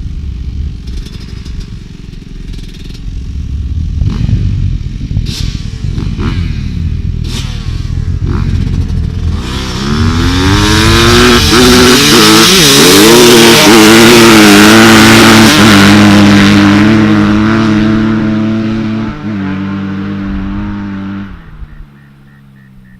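A 250 dirt bike engine running at high revs close by for about ten seconds, its pitch dipping and climbing again, after a stretch of low rumble and scattered knocks; the engine sound falls away near the end.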